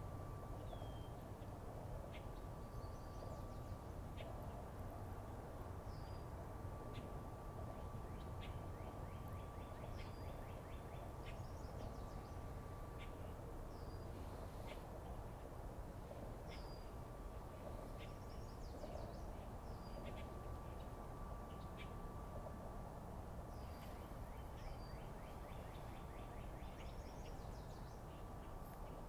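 A bird calling over and over: short high chirps that sweep downward, every second or two, mixed with quick rattling trills. Under them runs a steady low rumble with a faint constant hum.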